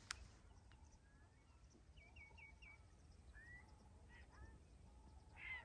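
Faint wild bird calls over a low wind rumble: scattered short chirps, a quick run of four about two seconds in, and a louder call near the end. A single sharp click comes right at the start.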